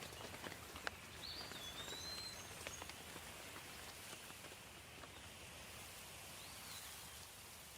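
Soft, steady light rain falling, with scattered individual drops ticking. A bird chirps faintly twice.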